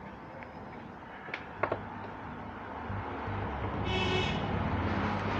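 A few small clicks, then a low rumble that swells, with a short honk-like tone about four seconds in.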